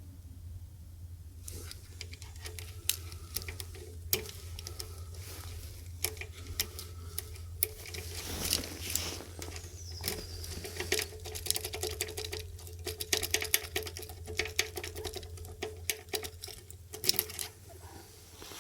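Metal key scraping and clicking against the keyway of a Roadlok motorcycle lock, pushed in again and again without going in: the lock cylinder is blocked. Many quick clicks and rattles start about a second and a half in and stop near the end, over a steady low hum.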